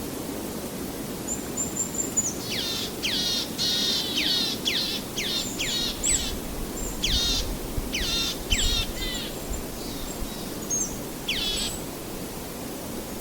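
A bird calling a quick series of sharp notes that each sweep steeply downward in pitch, from about two seconds in until about nine seconds, with one more short burst near the end. Under it runs a steady low background noise.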